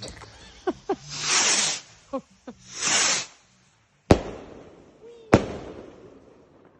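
Fireworks going off: two hissing whooshes, then two sharp loud bangs about a second apart, each trailing off in a long echo.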